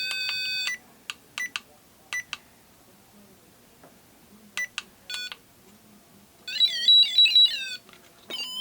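Electronic ghost-hunting device beeping as its sensitivity and temperature settings are set: a held multi-tone beep that cuts off under a second in, several short single beeps, then a louder warbling electronic alert melody near the end.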